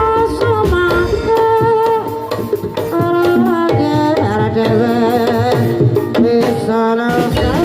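Live Javanese gamelan music for a kuda kepang (ebeg) dance: kendang hand-drum strokes under a held, slightly wavering melody line.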